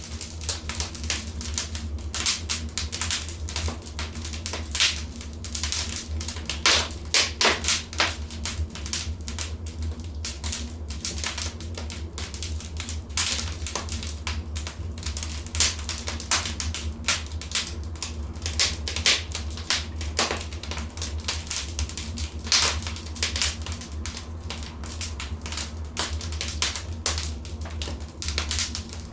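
Fire in a fireplace crackling: irregular sharp snaps and pops, some louder than others, over a steady low rumble.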